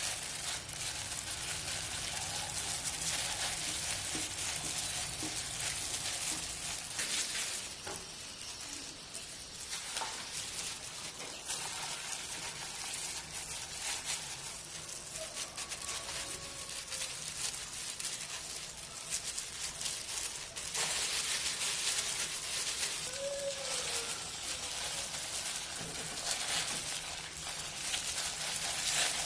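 Food sizzling and crackling as it fries in hot oil, a steady hiss with many small pops that grows louder about two-thirds of the way through.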